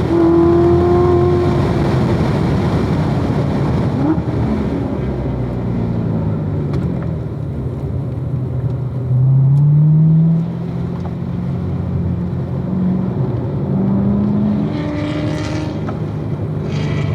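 Supercharged 6.2-litre V8 of a 2016 Corvette Z06 driven hard on a race track, its pitch changing constantly with throttle and gears. The pitch drops at the start as the throttle is lifted, climbs in a loud burst of acceleration about nine seconds in, then holds steadier toward the end.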